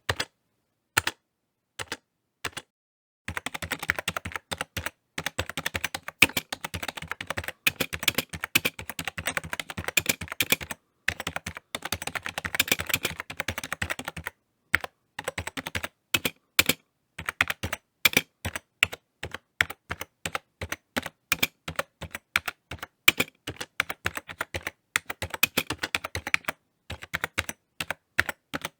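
Typing on a computer keyboard: quick runs of key clicks with short pauses, sparse single keystrokes for the first few seconds, then fast continuous typing.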